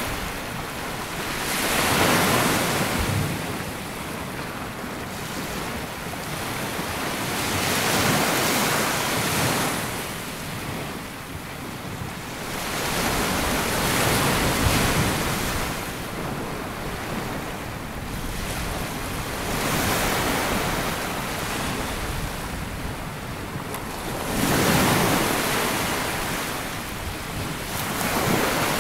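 Sea waves breaking and washing up a sandy beach, swelling in a slow rhythm about every five or six seconds. Some wind buffets the microphone.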